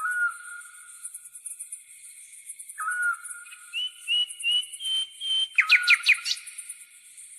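Night wildlife soundscape: an insect chirrs steadily in a high, fast-pulsing trill, over which a short clear whistled call sounds at the start and again about three seconds later. In the second half another bird gives a run of short chirps and then several quick rising calls, the loudest sounds here.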